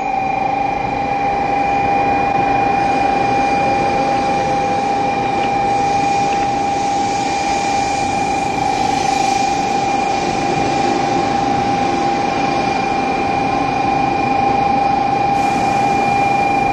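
Shinkansen bullet train pulling in alongside the platform: a steady rushing noise that swells as the carriages pass, with a constant high tone held over it throughout.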